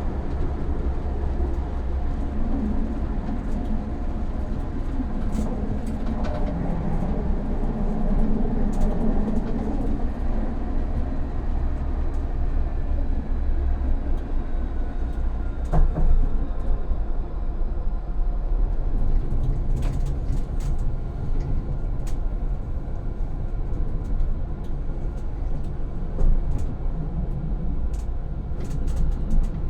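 Electric tram running on rails, heard from the driver's cab: a steady low rumble of wheels and running gear with a faint motor whine that falls in pitch around the middle, and occasional sharp clicks and knocks.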